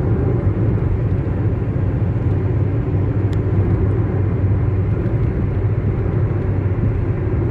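Steady rumble of a car driving at road speed, heard from inside the cabin: engine and tyre noise with a low hum.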